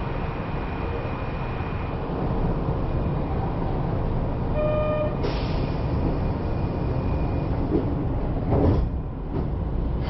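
Kyoto subway train car with a steady low rumble and hum. About halfway through a short electronic tone sounds, cut off at once by a burst of air hiss, and a thump follows near the end, typical of the doors closing at a station before departure.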